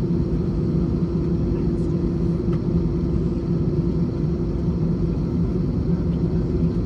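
Airbus A321's jet engines and airflow heard from inside the passenger cabin: a steady low drone with a constant hum that neither rises nor falls.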